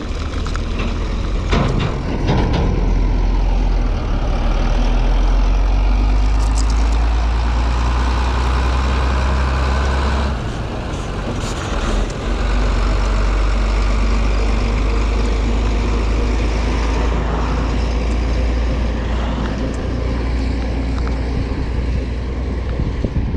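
Steady wind rumble buffeting the microphone, with a hiss of moving air over it; the rumble drops out briefly about ten seconds in.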